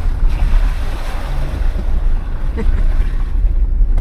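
Jeep driving on a dirt trail, heard from inside the vehicle: a steady low engine and drivetrain rumble under a rushing noise of wind on the microphone.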